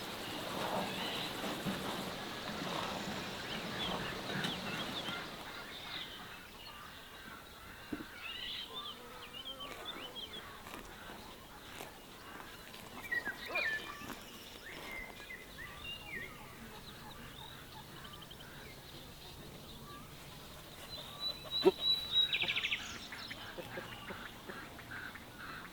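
Birds chirping with many short, high calls, and a louder call about 21 seconds in; a frying sizzle fades out over the first few seconds.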